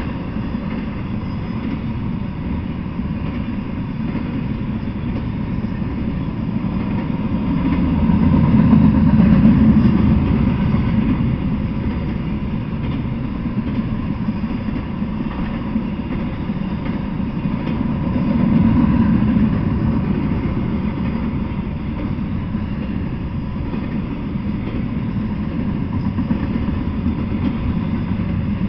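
Double-stack intermodal freight train rolling past, a steady rumble of steel wheels on rail that swells louder twice, about a third and two-thirds of the way through.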